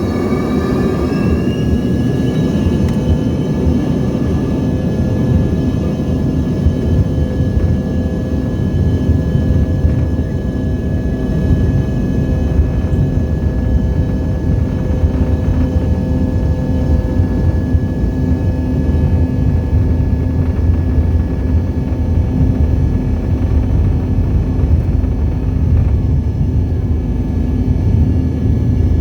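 Jet airliner engines spooling up to takeoff power: a rising whine in the first couple of seconds that settles into steady engine tones over a heavy low rumble.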